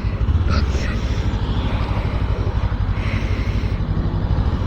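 Suzuki GW250 Inazuma's 248 cc parallel-twin engine running steadily with an even, rapid pulse.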